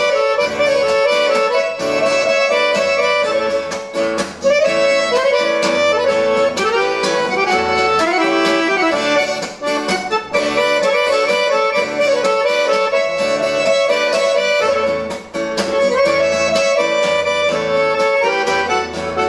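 Accordion (gaita) playing the melody of the instrumental introduction to a traditional gaúcho song, over a steady rhythmic backing with bass notes.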